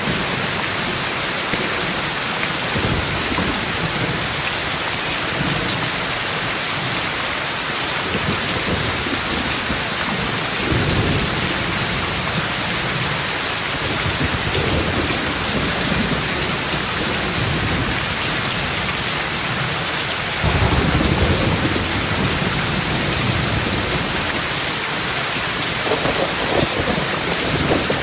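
Heavy rain falling steadily, with rolls of thunder rumbling now and then; the loudest roll comes in suddenly about 20 seconds in and rumbles on for several seconds.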